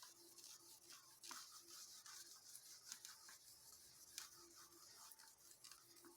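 Faint, scratchy strokes of handwriting, a writing tip rubbing and tapping in short irregular strokes.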